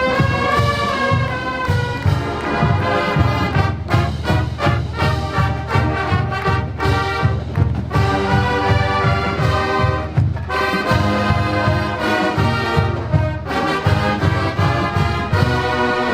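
Marching band playing: brass melody over a steady, driving drum beat.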